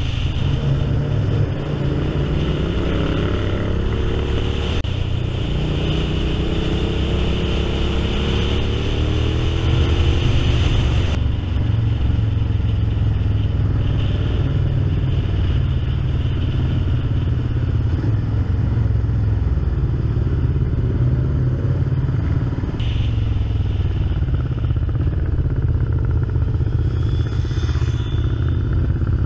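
Honda VTR1000 V-twin motorcycle engine heard from the bike itself, its pitch rising in several runs as it accelerates through the gears, then running steadier.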